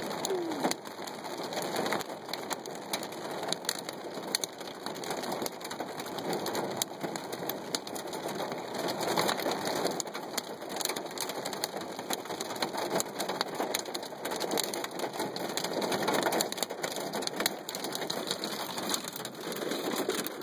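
Heavy storm rain pelting window glass: a dense, steady patter with many sharp ticks of individual drops striking, swelling louder now and then.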